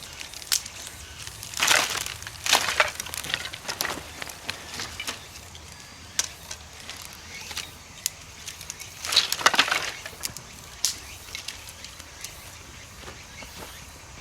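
Dry twigs and small sticks snapping and crunching in two bursts of sharp crackles, one about two seconds in and another around nine seconds in, with a few single cracks between.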